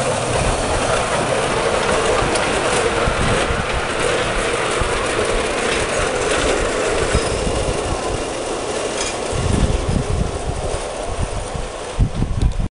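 Train running along the track with a steady rumble and clatter of wheels on rails, with a few heavier low thumps near the end.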